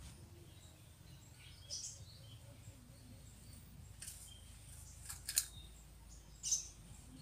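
Birds giving short, sharp chirps, four brief notes a second or two apart, over a faint steady forest background; the loudest is a quick double note about five seconds in.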